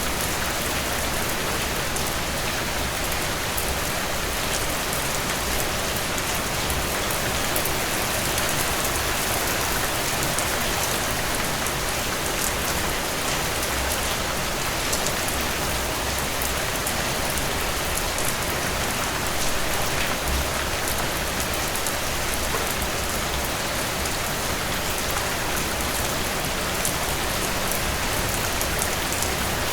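Heavy rain falling steadily on a tin roof: a dense, even hiss with the fine patter of individual drops.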